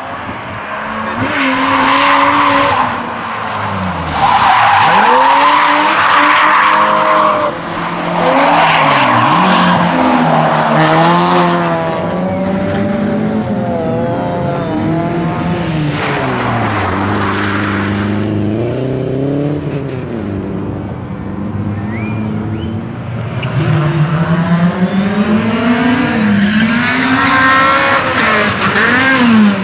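Rally car engine revving hard, its pitch climbing and dropping again and again through gear changes and lift-offs, with tyres skidding in the first ten seconds and again near the end.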